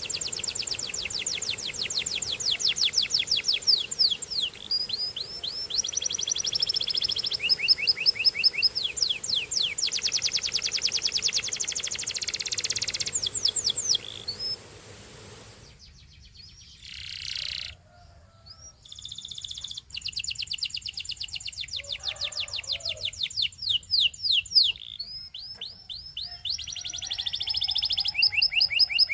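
Domestic canary singing in fast, evenly repeated high trills and rolling tours, changing from one phrase to the next every second or two. About halfway through, the song breaks off for a few seconds with only faint notes, then starts again.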